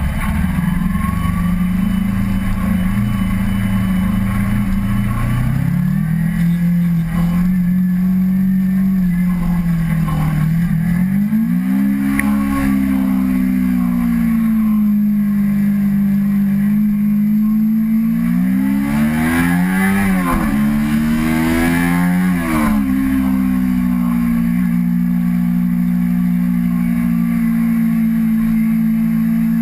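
Kawasaki Ninja 250R's parallel-twin engine running under way at a mostly steady pitch. The revs rise and fall once about a third of the way in, swing up and down several times in quick succession about two-thirds in, then settle back to a steady note.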